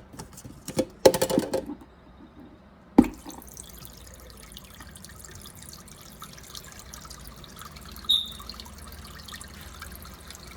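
Water draining out of a small portable washing machine into a sink, a steady trickle that starts after a sharp knock about three seconds in. Before it, a short clatter of the plastic machine being handled.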